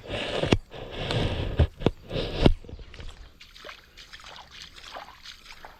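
Footsteps wading through shallow river water, sloshing and splashing with each step. The splashing is loudest in the first two and a half seconds, then fainter.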